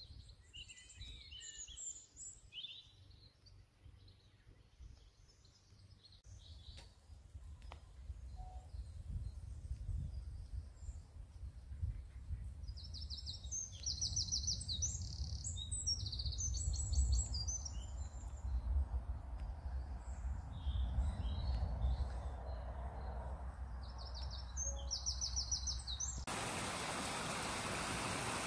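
Songbirds singing outdoors: short, high, rapidly trilled phrases repeating every few seconds, over a low rumble. Near the end the sound cuts abruptly to a steady rushing hiss.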